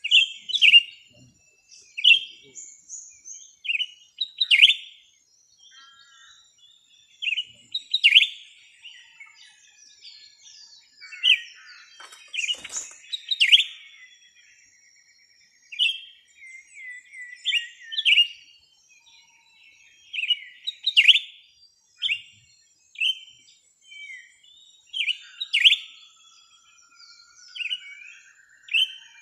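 Small birds chirping: loud, sharp chirps every second or two, with fainter twittering between them. A faint buzzing tone comes in near the end.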